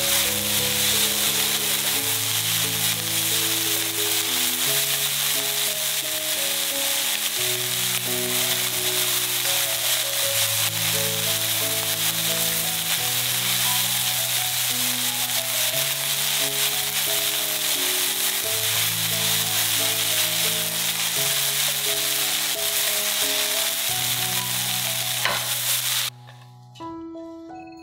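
Shredded cabbage, carrot and scrambled egg sizzling in a hot nonstick frying pan as they are stirred with a silicone spatula, a steady frying hiss over background music. The sizzling cuts off suddenly near the end, leaving only the music.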